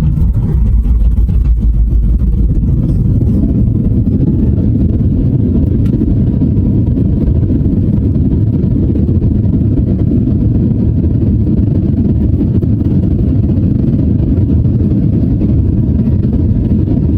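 Loud, steady low rumble inside the cabin of a Boeing 737 MAX 8-200 during the landing: engine and airflow noise, a little stronger for the first couple of seconds and then even.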